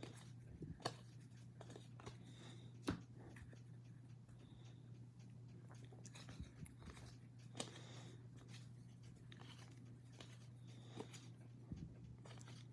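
Faint scattered clicks and light rustles of trading cards being handled and flipped through, over a steady low hum.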